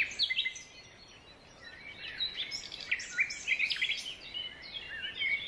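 Small birds chirping and twittering: many short, quick high calls overlapping, with a brief lull about a second in, over faint outdoor background noise.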